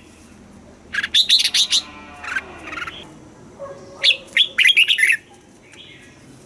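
Red-whiskered bulbul singing: two quick phrases of bright, sliding whistled notes, the first about a second in and the second about four seconds in.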